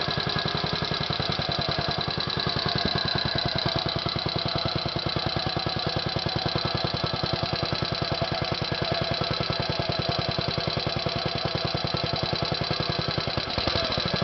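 Small engine running steadily at idle with an even, rapid firing beat.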